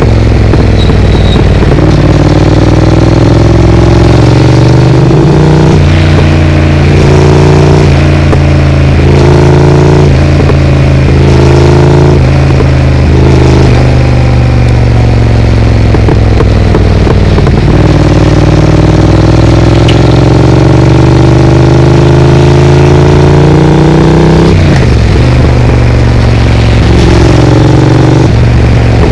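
Triumph Speed Twin's parallel-twin engine through a Vance & Hines aftermarket exhaust, riding in traffic: the pitch climbs and drops again and again as the bike runs through the gears, then holds a longer, steadier pull before easing off about 25 seconds in and picking up again.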